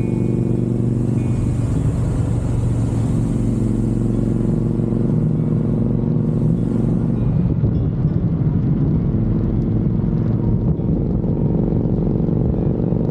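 Motorcycle engine running steadily at an even speed, a continuous low drone with a faint rushing hiss over it in the first half.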